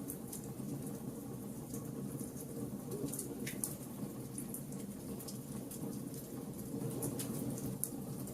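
Wood fire burning with a steady low rush of flames and frequent sharp, irregular crackles and pops from the burning wood.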